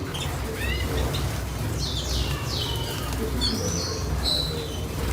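Small birds chirping: a few short rising chirps, then two falling high calls about two seconds in and more calls around four seconds, over a steady low rumble.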